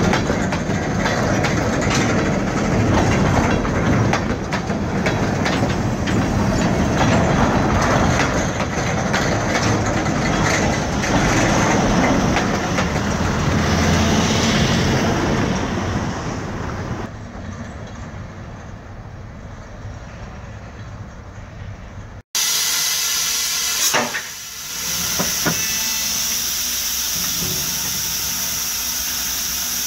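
Freight train of tank cars rolling past at close range, loud and steady, growing quieter after about seventeen seconds as the last car goes by. After a sudden cut, a steady loud hiss with a couple of knocks from metal-forming machinery in a shop.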